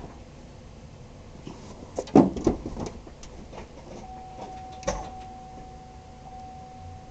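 A cluster of clicks and knocks about two seconds in and another knock near five seconds, with a steady single tone starting about four seconds in. No engine is running.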